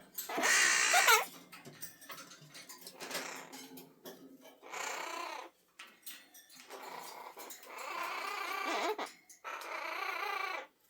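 Hahn's macaw calling: one loud squawk with a bending pitch near the start, then a string of quieter chattering bursts, each about a second long.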